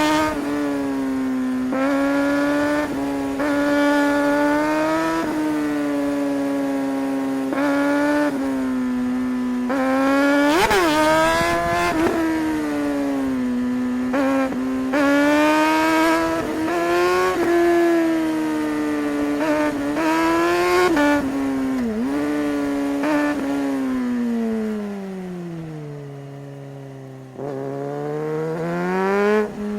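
2008 Suzuki GSR 600's inline-four engine pulling hard and changing gear over and over: the pitch climbs and then drops abruptly at each shift, with one sharp rev spike about eleven seconds in. Near the end the revs sink low and the engine runs quieter before a sudden burst of throttle.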